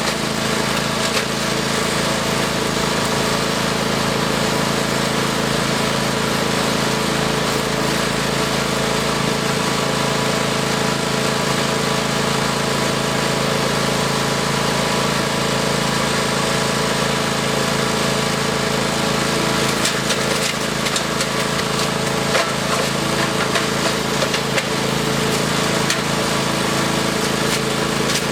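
Engine-driven wood chipper running steadily while it chews branches, with a run of sharp cracks and snaps of wood in the second half.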